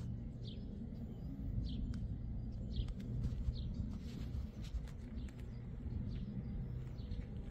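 A small bird chirping repeatedly, short falling chirps about once a second, over a low steady rumble, with light footsteps on pavement.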